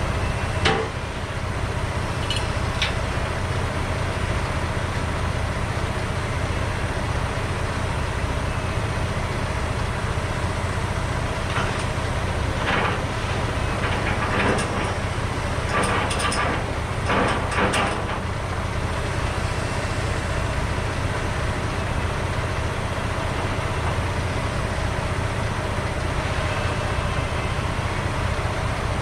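Logging truck's diesel engine running steadily with constant road noise. There is a brief rattle near the start and a cluster of clanks and rattles about halfway through.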